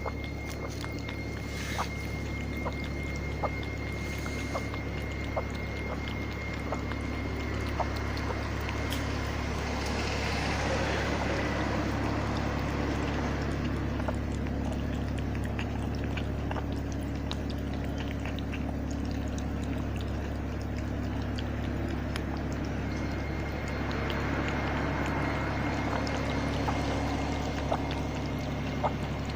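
Orange tabby cat lapping water: scattered small licking clicks over a steady watery hiss and a low hum.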